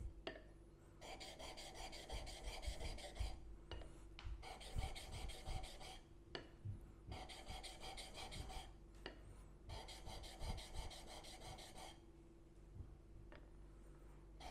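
A steel chisel bevel rubbed back and forth on a wet 600-grit diamond sharpening plate, giving a gritty scraping. The scraping comes in four spells of about two seconds each, with short pauses between them.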